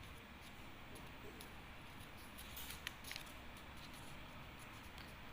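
Faint handling of a small sheet of origami paper being folded by hand, with a few soft clicks around the middle.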